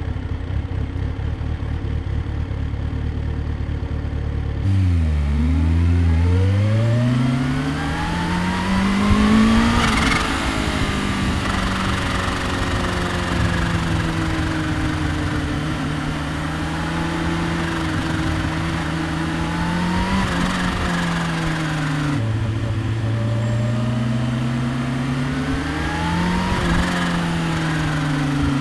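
2015 Kawasaki Ninja H2's supercharged 998 cc inline-four, idling for about five seconds and then pulling away, its pitch climbing steadily for about five seconds before settling into a steady cruise. Near the end the pitch drops suddenly, climbs again with the throttle, and falls back off.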